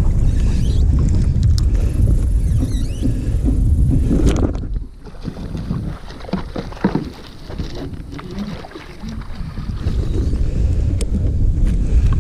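Wind buffeting the microphone on a kayak. It drops away for several seconds in the middle, where small knocks and handling sounds come through, then returns.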